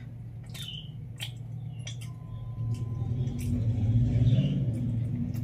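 Close-miked eating sounds: wet mouth clicks and chewing of rice and curry. Under them a low, steady engine-like hum grows louder about three seconds in.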